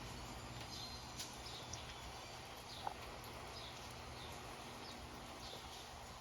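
Faint outdoor ambience: a steady hiss of rain with short high chirps repeating roughly once a second, and a single small tick about halfway through.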